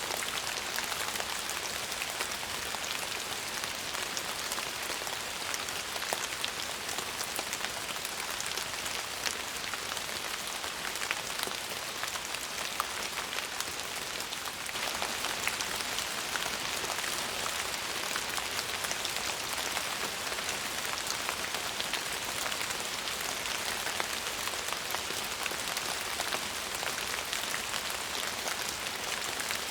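Steady rain falling, an even hiss dotted with the ticks of many single drops hitting a surface.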